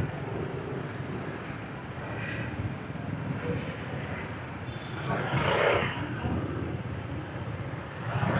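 Steady traffic noise of motorbikes and other vehicles heard from a moving motorbike. A louder rushing swell lasting about a second comes about five seconds in.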